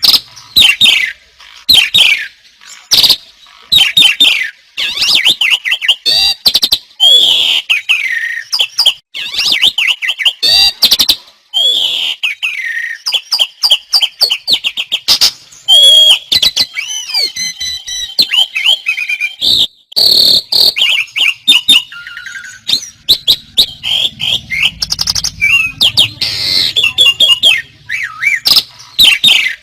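Several songbirds singing loudly all at once, their rapid chirps, trills and sharp notes overlapping without a break.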